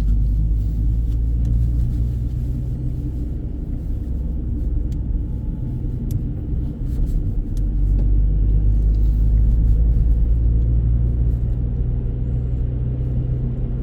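Low, steady road and engine rumble of a moving car heard inside the cabin; it eases a little partway through, then builds again.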